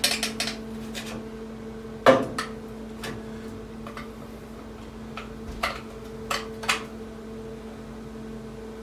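Light metal clinks and knocks as a magnet and a steel patch panel are shifted into position, the sharpest clank about two seconds in, over a steady hum.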